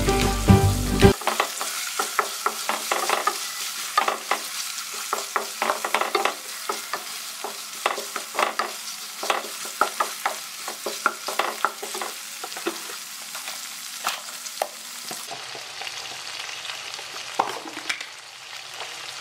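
Squid stir-frying in a pan with oil and chilli: a steady sizzle under frequent clicks and scrapes of stirring against the pan. The stirring clicks thin out in the last few seconds.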